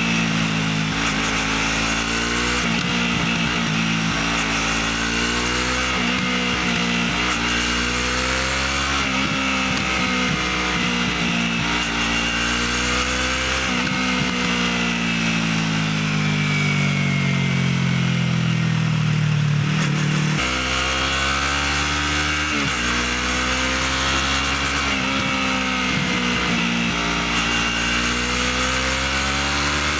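Motorcycle engine heard through its standard (stock) exhaust, its pitch repeatedly climbing and dropping with throttle and gear changes. About two-thirds of the way through it winds down in one long fall as the bike slows, then picks up again.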